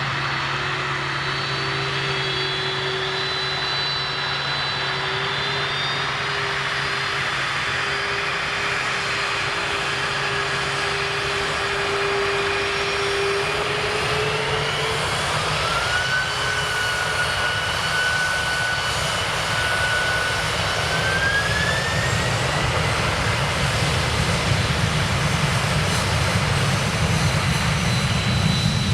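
Jet airliner engines running, a steady rumble with a high whine that rises in pitch twice, about halfway through and again some seconds later, as the engines spool up. The sound grows louder toward the end.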